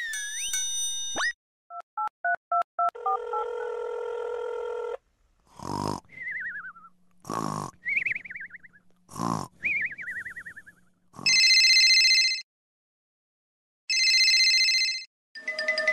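Cartoon sound effects for a sleeping character: a whistle glide and a few short beeps, a steady tone, then three comic snores, each followed by a falling, warbling whistle. Near the end, a ringing bell goes off twice, like an alarm clock.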